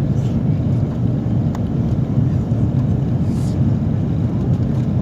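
Steady low rumble of airflow and engines inside the cabin of an Airbus A330 on final approach, with a faint click about one and a half seconds in.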